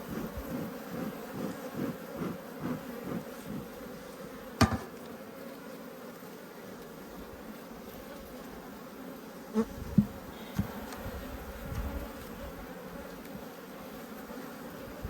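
Honeybees buzzing steadily around an open hive. A sharp knock comes about four and a half seconds in, and a few dull thumps around ten seconds in.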